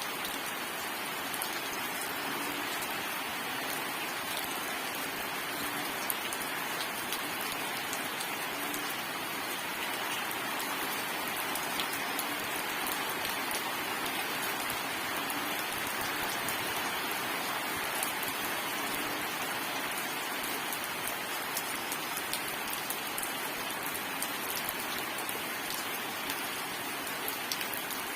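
Steady rain falling on a surface, an even hiss flecked with many small drop ticks, with no thunder.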